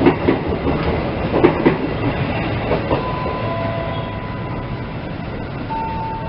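Train wheels clattering over rail joints as a train rolls past. The knocks are strongest in the first two seconds, then ease into a steady rumble. From about halfway, a few steady single tones sound at changing pitches.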